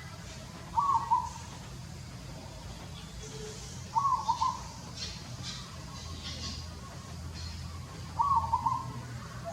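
A bird calling three times, each call a short phrase of a few quick cooing notes, repeated about every three to four seconds.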